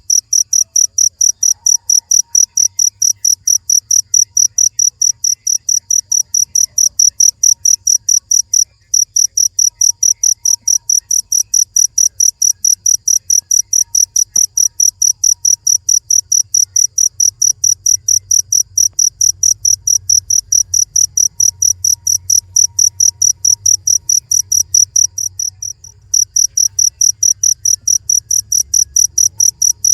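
A cricket chirping in a fast, even rhythm, about three to four high-pitched chirps a second, with two brief pauses.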